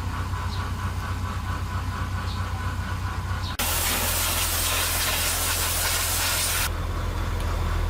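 A steady low machine hum. About three and a half seconds in it changes abruptly and a loud hiss begins, lasting about three seconds before it cuts off.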